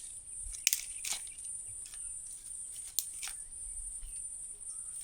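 Steady high-pitched drone of rainforest insects, crickets or cicadas, with a few sharp clicks scattered through it.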